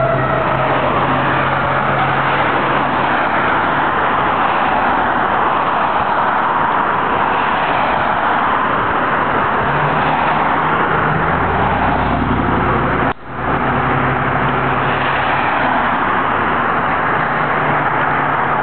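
Fire engine running steadily with loud road and traffic noise. The sound drops out briefly about thirteen seconds in.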